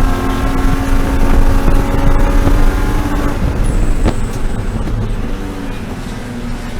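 E36 BMW M3 race car's straight-six engine running at a steady pitch under power, then easing off and dropping in loudness over the second half, with a single sharp click about four seconds in.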